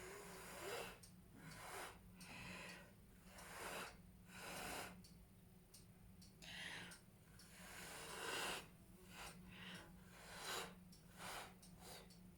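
About ten short puffs of blown air at uneven intervals, each lasting well under a second: air being blown across wet poured acrylic paint to spread it in a Dutch pour.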